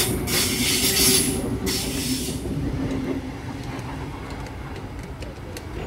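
Double-deck electric commuter train rolling past close by, its wheels on the rails making a loud hiss that drops away about two seconds in as the last carriage clears, then a lower rumble fading as the train pulls away.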